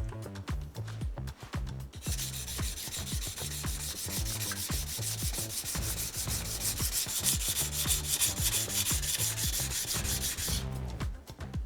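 Honyaki fugu-hiki knife blade being ground on a whetstone in rapid back-and-forth strokes, a gritty rubbing hiss. It starts about two seconds in and stops shortly before the end, over quiet background music.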